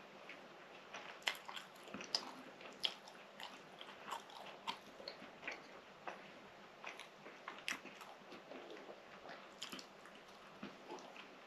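Close-miked chewing of soft, stuffed fatayer pastry: quiet, irregular wet mouth clicks and smacks, with another bite taken near the end.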